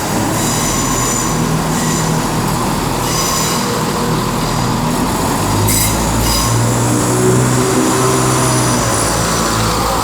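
Cross Country class 170 Turbostar diesel multiple unit pulling out, its underfloor diesel engines working under power, with a steady high-pitched squeal from the wheels on the track.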